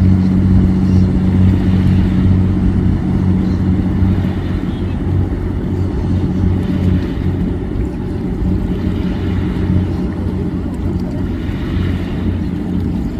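Express passenger boat's engine running steadily, a loud, deep, even hum.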